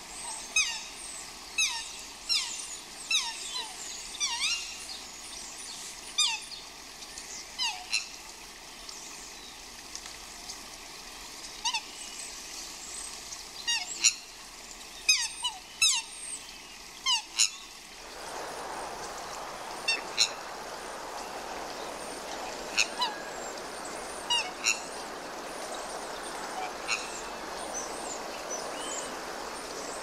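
Birds calling with repeated short, high whistles, each sliding quickly down in pitch, many in quick succession. About halfway through, a steady rushing noise like running water comes in suddenly, and fewer calls sound over it.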